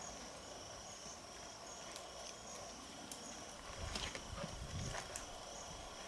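Faint, steady high-pitched insect chirring, with a few soft low thumps and light clicks about four to five seconds in.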